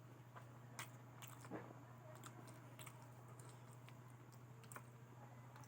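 Faint close-miked chewing of spicy fried potato, with irregular small crunches and wet mouth clicks over a steady low electrical hum.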